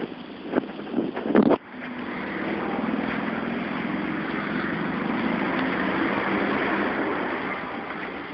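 A few sharp knocks, then an engine running steadily, its hum swelling slightly and easing off near the end.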